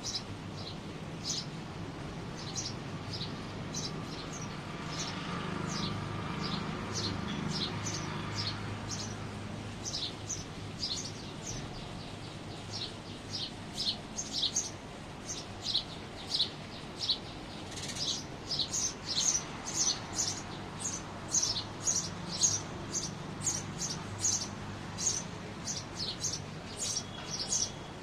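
Small birds giving a long series of short, high chirps, which become quicker and louder in the second half.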